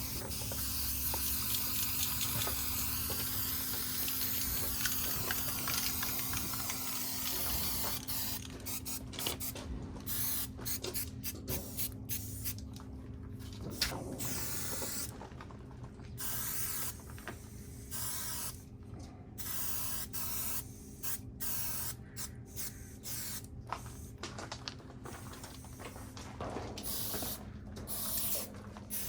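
Aerosol spray-paint can spraying: one long continuous hiss for the first several seconds, then many short bursts with brief pauses between them.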